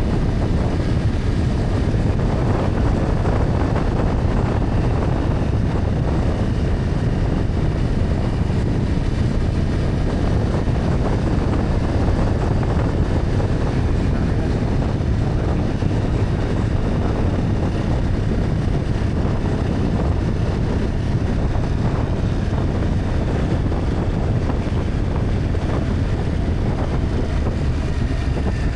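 BMW F800GS parallel-twin engine running steadily under way, mixed with a constant rush of wind over the microphone.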